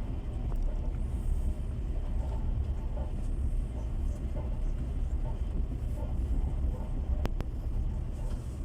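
Inside a moving passenger train carriage: the steady low rumble of the wheels running on the rails, with a single sharp click about seven seconds in.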